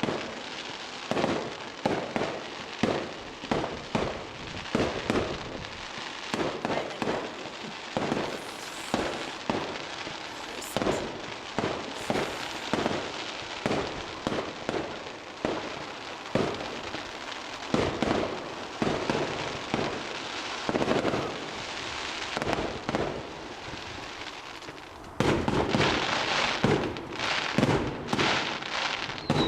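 Fireworks display: aerial shells going off in a steady run of bangs, about one to two a second, over continuous crackling. About 25 s in the barrage turns louder and denser.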